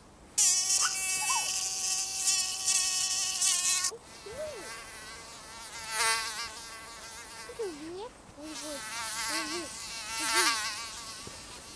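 Mosquito whining in flight close by, a thin buzzing tone that wavers in pitch as it moves. A loud, steady stretch cuts in just after the start and stops abruptly about four seconds in; after that the whine fades in and out, dropping away briefly near the two-thirds mark.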